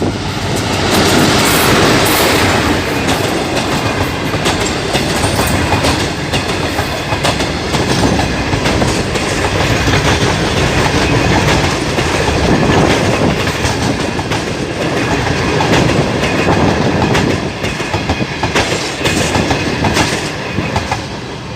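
Passenger express train passing close by at speed: a loud, steady rumble of the coaches with rapid clicking of the wheels over the rail joints, easing slightly near the end.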